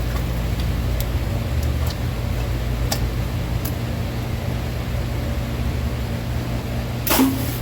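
A spoon clicks lightly against a pan of thickening cream sauce a few times over a steady low rumble, and there is one brief louder scrape about seven seconds in.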